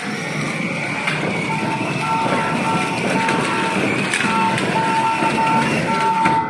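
A children's ride-on toy car plays a simple electronic tune of short repeated beeping notes, starting about a second and a half in, over a steady background din.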